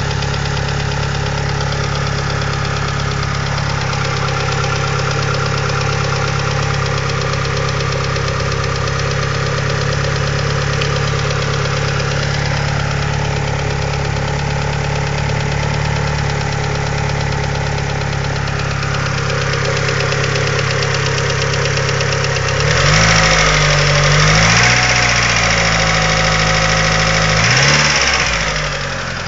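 Second-generation DSM four-cylinder engine idling steadily with a lifter tick from its hydraulic lifters: the tick of faulty lifters, which the owner cured by fitting upgraded 3G lifters. About three quarters of the way through it is revved, the pitch rising and falling a couple of times, then it settles back toward idle near the end.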